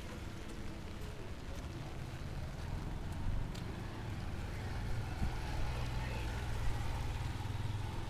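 Street ambience: indistinct voices in the distance over the low rumble of a vehicle engine, which grows louder about halfway through as it passes.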